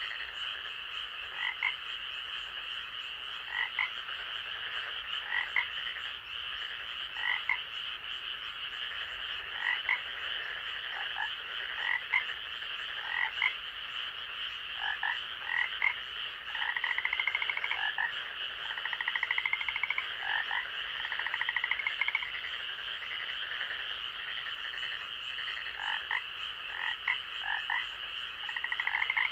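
Night-time forest chorus of frogs. Short croaking calls repeat about once a second, with a few longer rattling trills around the middle, over a steady high-pitched chorus.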